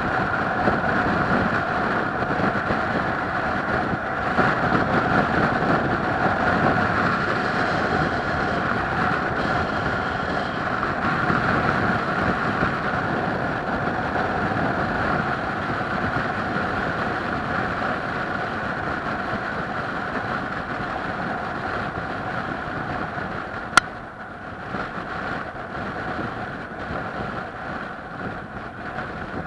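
Steady running noise of a moving vehicle, with a constant hum and wind noise. A single sharp click comes near the end, after which the noise is quieter.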